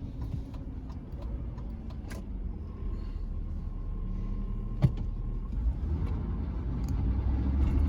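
Pickup truck heard from inside the cab, engine and road noise getting louder over the last couple of seconds as it picks up speed. A couple of sharp clicks come from the exhaust, where a broken block of the catalytic converter has come loose in the Y-pipe and rattles.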